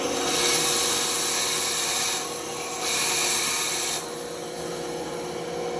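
Benchtop band saw running with a steady motor hum, its blade cutting through wood in two passes: a loud hissing rasp for about two seconds, a short gap, then another second of cutting, after which only the motor hum is left.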